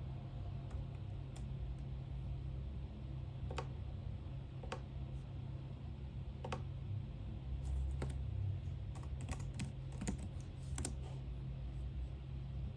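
Computer keyboard keys tapped in scattered single keystrokes, then a quick run of typing about two-thirds of the way in, over a steady low hum.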